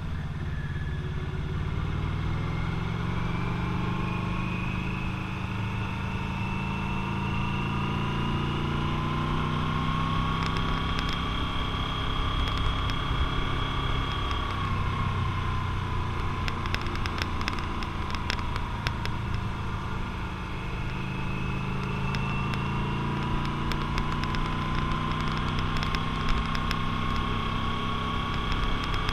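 Motorcycle engine running under way on a ride, with a whine that climbs, drops back around the middle and climbs again as road speed changes. A few faint clicks come in about two-thirds of the way through.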